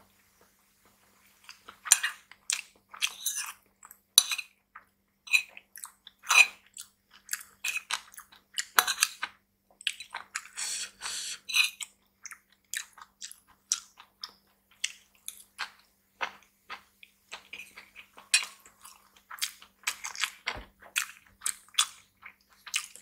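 Close-miked chewing of a mouthful of nasi campur, rice with mixed vegetables, with wet, crunchy bites and a metal spoon clinking against a ceramic bowl. Near the end there is a low thump as a plastic drinking bottle is picked up and handled.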